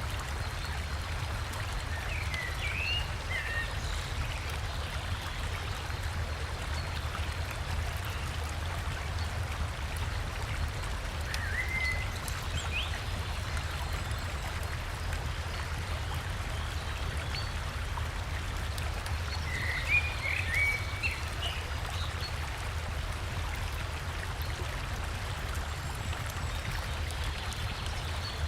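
Steady rush of flowing river water with a low rumble. Short bird chirps come a few times, about 3, 12 and 20 seconds in, and there is one sharp tick about twenty seconds in.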